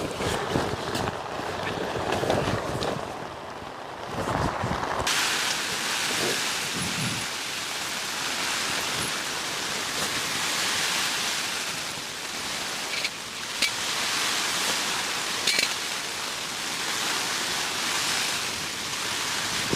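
Steady rain: a dense, even hiss that starts abruptly about five seconds in, with a few sharp drip-like ticks later on. Before it comes a lower, rumbling noise with some knocks.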